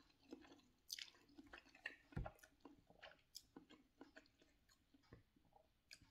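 Faint, wet chewing of a mouthful of instant ramen noodles, with irregular small mouth clicks and smacks and a couple of low bumps.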